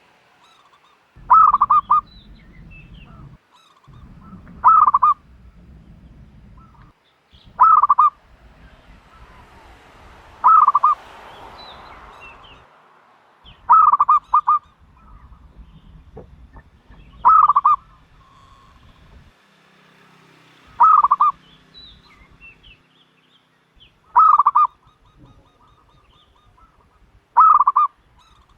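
Turtle dove giving a loud call of a few quick notes, repeated nine times at an even pace of about one call every three and a half seconds. A faint low rumble is heard between several of the calls.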